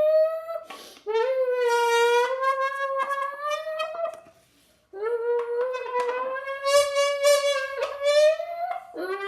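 A person imitating a Lamborghini engine with a voice droned into a can: long, buzzing, horn-like notes that slowly rise in pitch like an engine revving, broken twice by brief pauses for breath.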